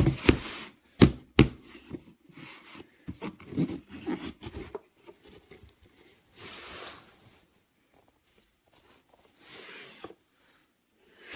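A hard-shell hair dryer travel case being handled: a few sharp knocks and clunks in the first second or so, then rubbing and scraping, with two longer rasps later on.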